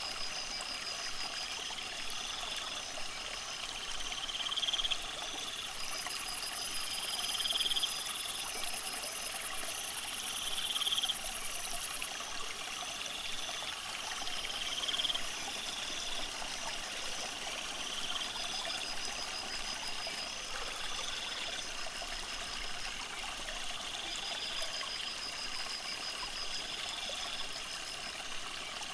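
Water trickling steadily. Over it a short rising chirp repeats about every two seconds, and a high buzz runs for several seconds partway through.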